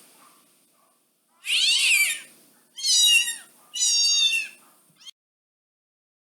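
Domestic cat meowing three times, each meow under a second long and the second and third higher and quicker than the first.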